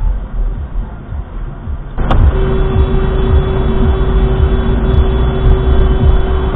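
Car road noise and rumble. About two seconds in, a sudden click starts a much louder sustained sound carrying one steady held tone, which stops near the end.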